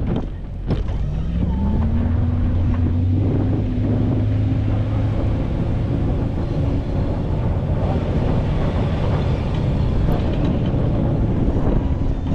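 A vehicle engine revs up over the first couple of seconds, then runs steadily at higher revs, with some wind noise on the microphone.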